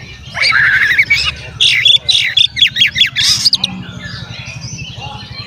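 Oriental magpie-robin (kacer) singing in full song. A loud, fast run of harsh and whistled notes and trills fills the first three and a half seconds, then eases into softer twittering over a low hum.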